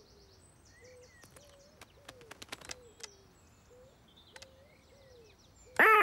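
Quiet garden ambience of faint, scattered bird chirps with a few soft ticks, then a loud, harsh cartoon bird squawk just before the end as the bird lands.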